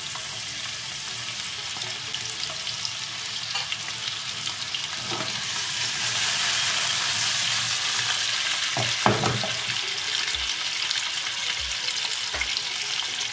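Canned snails sizzling as they fry in hot olive oil in a nonstick wok, a steady hiss that swells in the middle as the wok is shaken. A knock just after nine seconds.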